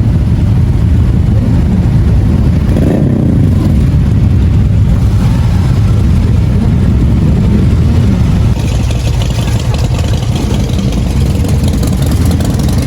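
Many motorcycle engines running together, some revving up. There is a change in the mix about two-thirds of the way through.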